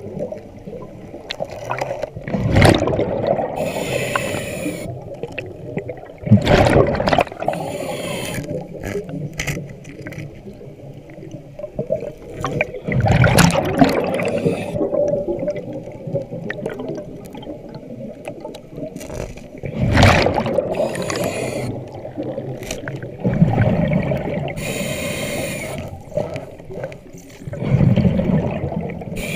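Scuba diver breathing underwater through a regulator: about six breaths, each a gush of exhaled bubbles rumbling out, several with the regulator's hiss, every few seconds.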